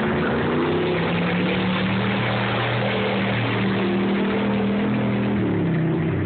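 Truck engine running steadily at moderate revs, its pitch wavering slightly and dipping about five and a half seconds in, over a steady hiss.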